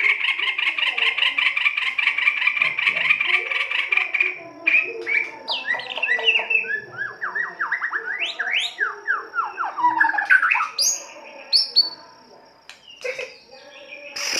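White-rumped shama (murai batu) singing its harsh song: a fast, buzzy run of repeated notes for about four seconds, then rapid varied whistles and down-slurred phrases that grow sparser and quieter near the end.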